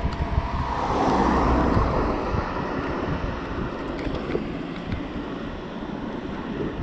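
Wind rushing over the microphone on a moving bicycle, with a low rumble and a louder swell about a second in that fades over the next second or two.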